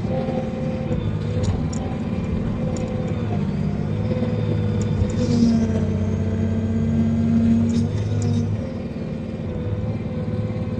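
Diesel engine of a logging processor running steadily, working harder and louder from about four seconds in, then easing back after about eight seconds.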